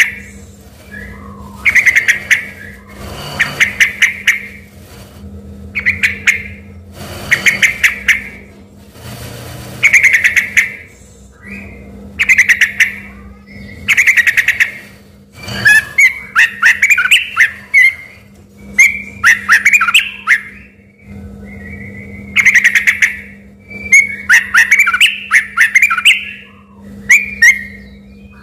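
Yellow-vented bulbul (trucuk) singing loud, whistled phrases about every two seconds, each a quick run of notes; from about halfway the phrases become longer, busier chattering runs. The song can pass for a white-rumped shama's. A faint steady hum runs underneath.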